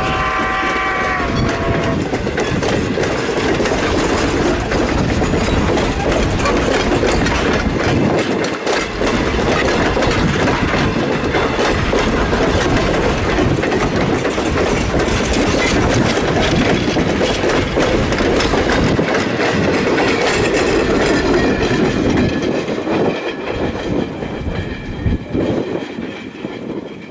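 A train passing close by at speed. A multi-note horn chord cuts off about a second in, then wheels clatter over the rail joints in a long rush that fades away near the end.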